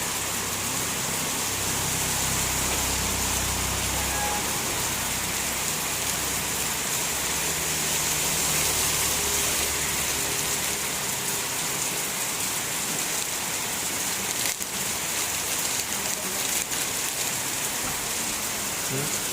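Heavy rain pouring down in a steady, even hiss, with a low rumble underneath during the first few seconds.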